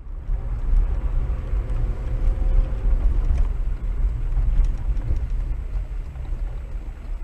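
Steady low rumble of a moving car's engine and tyres on the road, with faint hiss above it.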